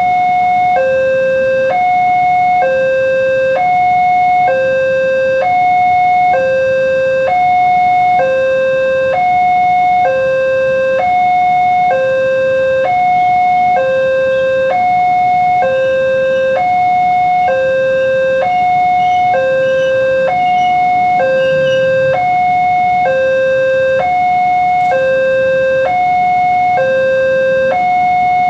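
Railway level-crossing warning alarm sounding a steady electronic two-tone signal: a higher and a lower tone alternate, each held about a second, repeating without a break.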